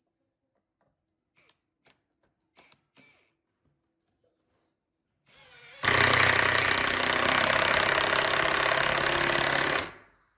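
A power tool spins up about halfway through and runs loud and steady for about four seconds, then shuts off and winds down. Before it there are a few faint light knocks.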